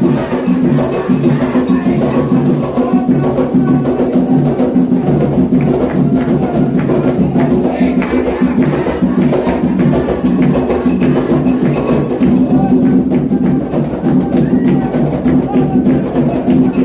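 Candomblé atabaque drumming: the hand drums play a continuous dance rhythm for Oxossi, led by the rum, with other percussion beating steadily alongside.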